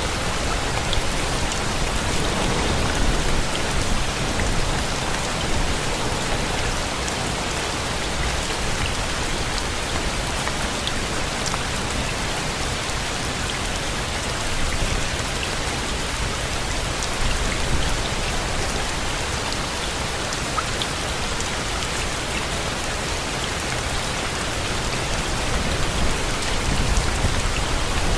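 Steady rain: an even, dense hiss with now and then a sharper drop tap standing out.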